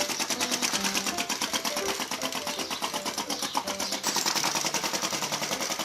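Model flame-licker (vacuum) engine driving a small toy tractor, running with a rapid, even ticking rhythm.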